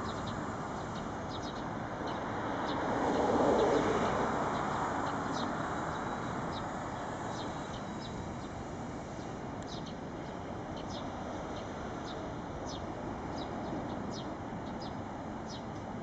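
Short, high bird chirps repeated at irregular intervals over a steady low background rumble that swells briefly a few seconds in.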